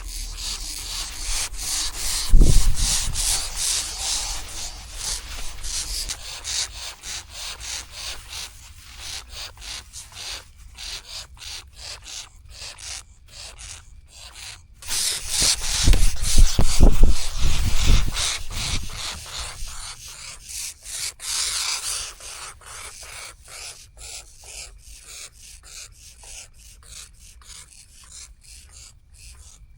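Grass owl chicks' raspy, hissing begging calls in long stretches. Heavy low thumps come about two seconds in and again around sixteen to eighteen seconds.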